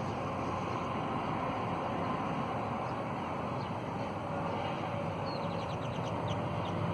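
Steady rumble of distant road traffic, with a quick run of faint, high bird chirps about five seconds in.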